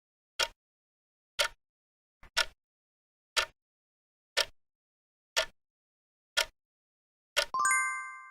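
Countdown timer sound effect ticking once a second. Near the end it finishes with a bright ringing chime that fades away, signalling that the answer time is up.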